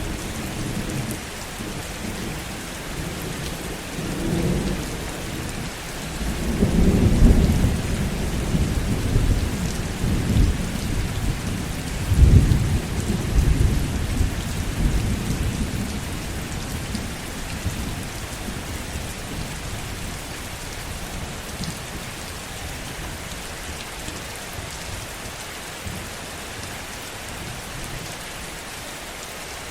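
Heavy steady rain with rolling thunder. The rumble swells a few seconds in, peaks twice in the first half, then fades away, leaving only the rain.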